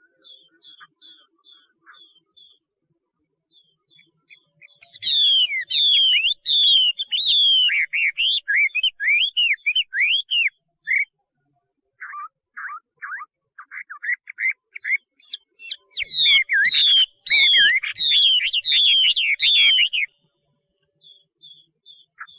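Chinese hwamei (melodious laughingthrush) singing. Soft high notes lead into two loud runs of rapid, repeated slurred whistles, with lower, choppier notes between the runs and soft notes again near the end.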